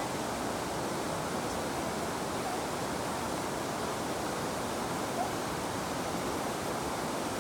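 River water flowing over stones, a steady, even rushing.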